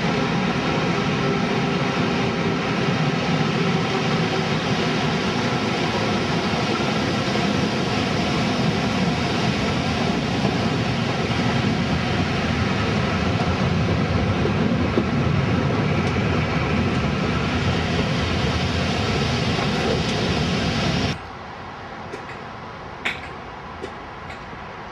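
Passenger train running along the track, heard through an open carriage window: a loud, steady rush of wheel and wind noise. About 21 seconds in it drops suddenly to a much quieter level, with a single sharp click shortly after.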